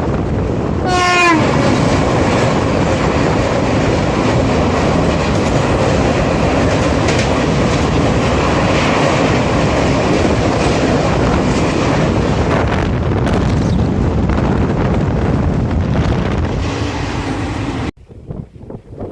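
Indian Railways train passing at speed: a short horn blast about a second in, its pitch dropping at the end, then a steady loud rush of wheels clattering over the rail joints, cut off abruptly near the end.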